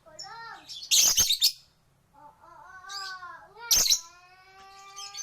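Pet lovebirds calling: rising-and-falling pitched calls broken by two loud harsh screeches, about a second in and near four seconds, then a long held pitched call near the end.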